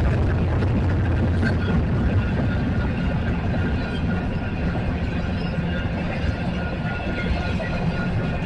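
Fast-moving Union Pacific coal train rolling by on the rails, a steady heavy rumble and rattle of the cars.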